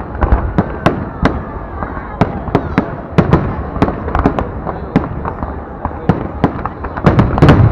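Fireworks display: an irregular string of sharp bangs from bursting shells, a few a second, with a denser, loudest volley near the end.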